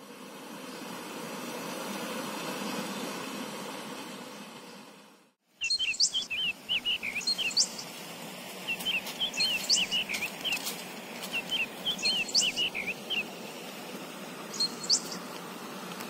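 A steady rushing noise swells and then fades out over the first five seconds. Songbirds then sing in repeated phrases of quick chirps and thin high whistles until near the end.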